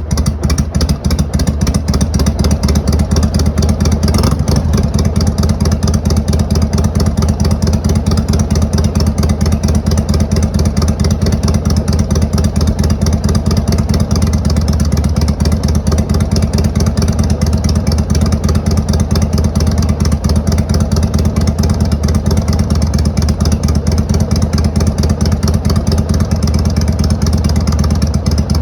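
Exhaust of a 2002 Harley-Davidson Sportster 883 Hugger's air-cooled V-twin, breathing through a Motor Stage brass-end muffler and running steadily, mostly at idle. The owner describes the note as keeping the straight-pipe tone at a lower volume.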